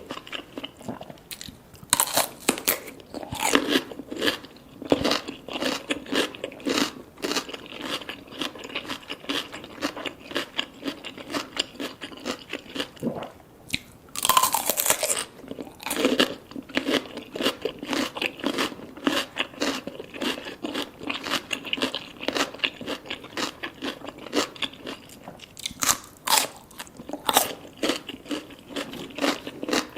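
Close-miked eating sounds: chewing and biting with many small irregular crunchy clicks. A longer, louder noisy burst comes about halfway through.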